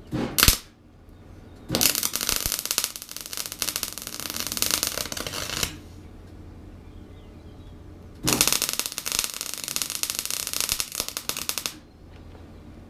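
MIG welder laying practice beads: two runs of fast, continuous crackling, about four seconds and then, after a short pause, about three and a half seconds. A short sharp knock comes about half a second in, and a low hum sits under the pauses.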